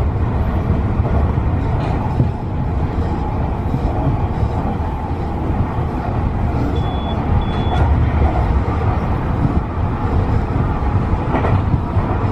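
Tobu 50090 series electric train running at speed, a steady rumble of wheels and running gear heard from inside the train. Two short high beeps sound about seven seconds in.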